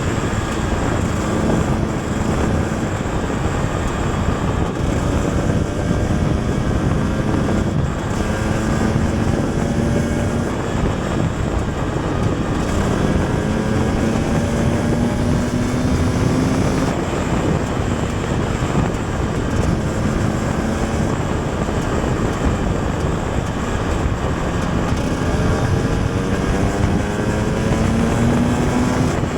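KTM 250 EXC TPI single-cylinder two-stroke engine running under way, its pitch climbing slowly and then dropping back several times over.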